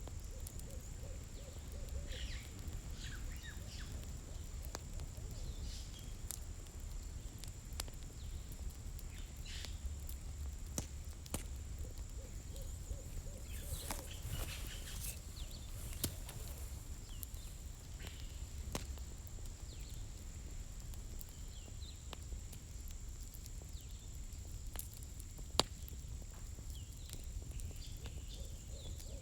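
Campfire crackling, with sharp pops and snaps over a steady low rumble. A bird's low, wavering trilling call sounds a few times, at the start, around the middle and near the end.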